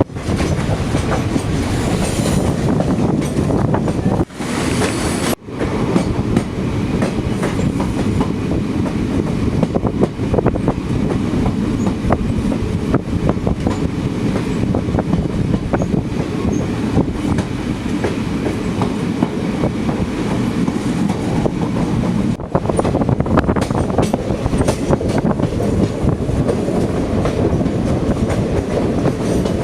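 Passenger train running along the track: a steady rumble with the wheels clicking over rail joints.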